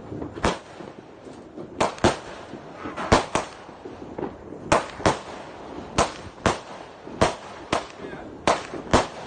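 Fireworks going off: a steady run of sharp bangs, about fifteen in all, spaced roughly half a second to a second apart and often coming in close pairs.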